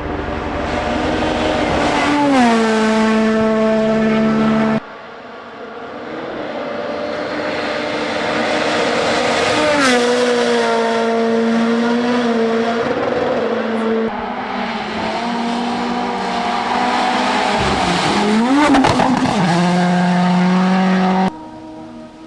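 Rally1 rally cars' turbocharged four-cylinder engines at full throttle, the engine note climbing and then dropping sharply, about 2 and 10 seconds in. The sound changes abruptly about 5, 14 and 21 seconds in, and near the end a car passes close with its engine note falling.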